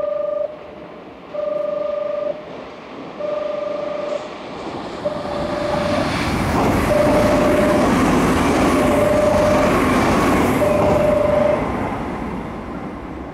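Nankai 50000 series Rapi:t express train passing through the station platform: a rumble and rush of wheels and motors that builds from about five seconds in and fades near the end. Over it a platform warning tone beeps about once every two seconds, seven times, and stops as the train clears.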